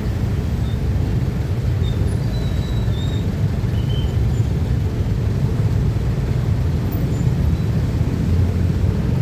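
Steady low rumble of passing vehicles, without break or change.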